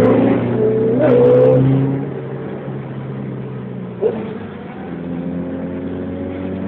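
Motorcycle engine running steadily, louder for the first two seconds and then easing off to a lower, even level.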